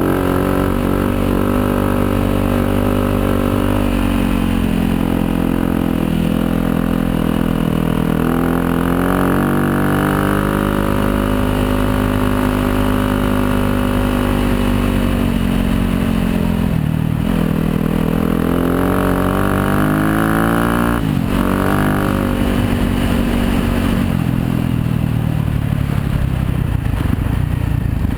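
Yamaha YZ250FX dirt bike's 250 cc four-stroke single-cylinder engine running on the move, its revs climbing and falling again and again, with two sharp brief drops about two-thirds of the way through.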